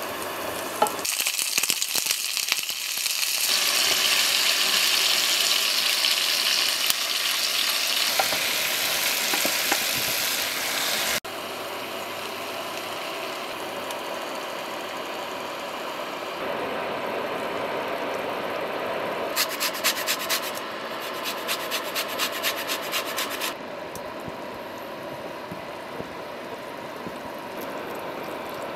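Garlic and vegetables sizzling in hot oil in a ribbed grill pan, stirred and scraped with a wooden spatula. The sizzle is loudest in the first ten seconds or so, drops abruptly about eleven seconds in to a quieter steady frying hiss, and a run of quick scraping strokes comes about two-thirds of the way through.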